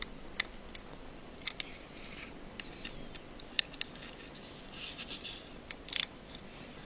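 Light, scattered clicks and faint scrapes of small tools on an iPhone 5 as its ribbon-cable connectors are unclipped.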